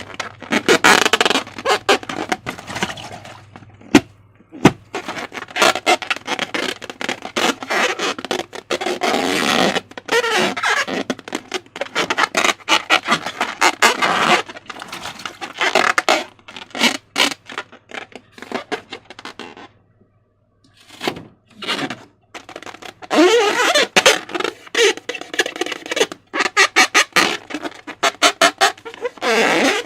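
Slime being squished and stretched by hand, a dense wet crackling and squelching with short squeaks from balloon rubber; it stops briefly about two-thirds of the way through, then starts again.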